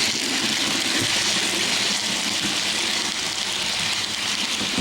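A model train locomotive with no on-board sound system running along the track, its motor whirring and its wheels rolling on the rails as a steady, even noise.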